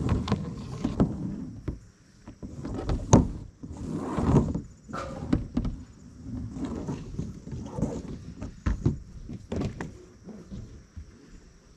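Irregular thumps, bumps and rustling with several sharp knocks, the loudest about three seconds in: handling and movement on a travel-trailer roof during cleaning.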